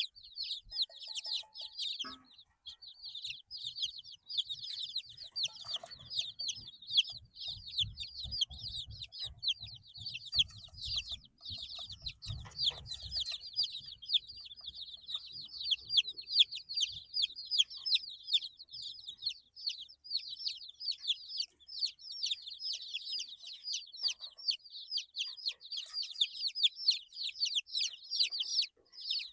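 A brood of 8-day-old chicks peeping nonstop. Many quick, high, downward-sliding peeps overlap one another.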